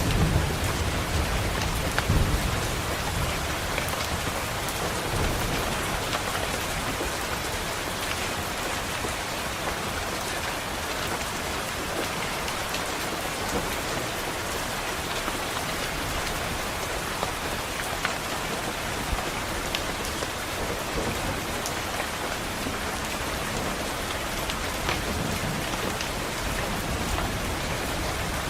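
Steady rain pattering on a window, with a low thunder rumble in the first few seconds and a fainter one near the end.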